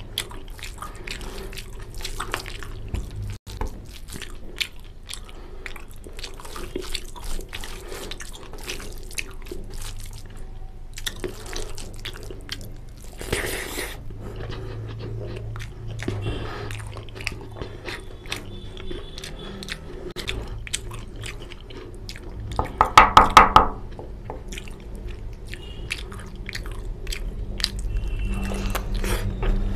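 Close-up chewing and mouth sounds of someone eating mutton curry and rice by hand: wet smacking and dense irregular clicks. About two-thirds of the way through comes a brief run of rapid pulses, the loudest sound.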